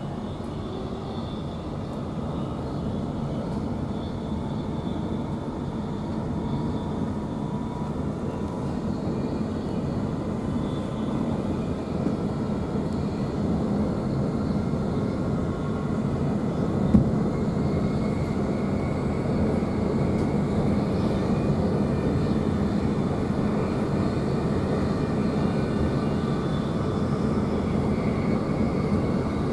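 Running noise inside a Queensland Rail electric suburban train at speed: a steady rumble of wheels on rail with a few faint steady tones above it, growing gradually louder. A single sharp knock sounds about 17 seconds in.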